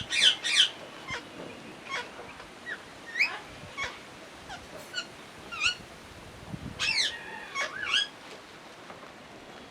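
A parrot chirping: short, sharp calls that slide steeply in pitch. They come in a quick cluster at the start, then as single calls every half-second to second, then another cluster about seven seconds in.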